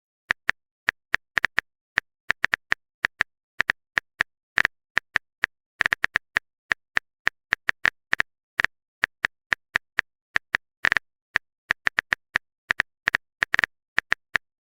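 Typing sound effect: a long run of short, sharp keyboard clicks at an uneven pace of about four a second, with silence between them.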